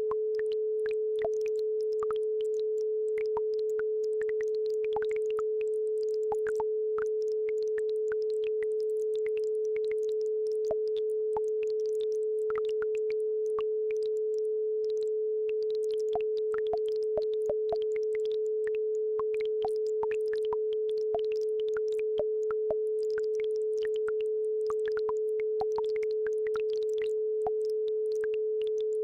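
A steady electronic tone at about 432 Hz, the base frequency of an isochronic-tone track, holding an even level throughout. Beneath it a faint babbling brook trickles, with scattered small splashes and drips.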